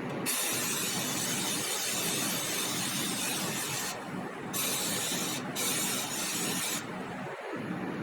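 Compressed air hissing from a trigger-operated air tool in three bursts, the first about three and a half seconds long and two shorter ones after it, each starting and stopping sharply, over a steady low background noise.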